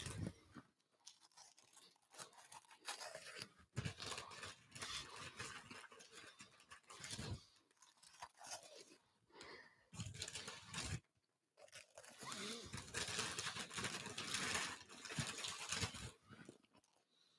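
Cheetos being crunched and chewed close to a microphone, in irregular bouts with short pauses.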